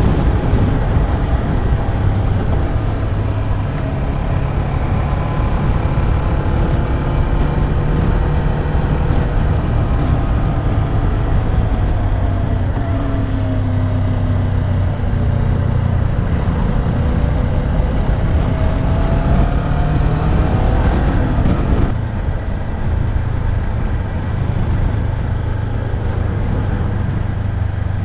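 Rusi KR200 dirt bike's engine running under way over a low rumble of wind, its pitch rising and falling with the throttle. About three-quarters of the way through, the engine note drops as the rider backs off.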